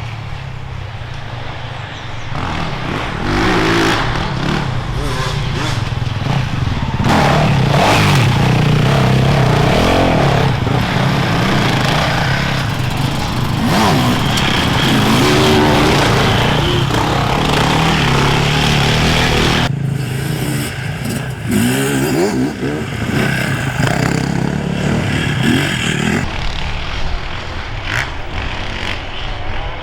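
Enduro dirt bikes riding past, engines revving and rising and falling in pitch as the riders open and shut the throttle. The sound is loudest around the middle, and its character changes about two-thirds of the way through, probably as a different bike comes close.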